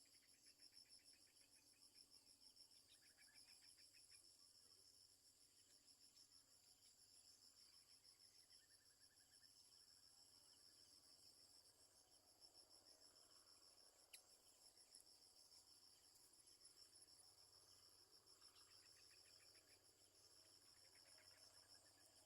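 Faint insect chorus: a steady, fast-pulsing high-pitched trill that never lets up, with a few fainter short trills lower in pitch now and then.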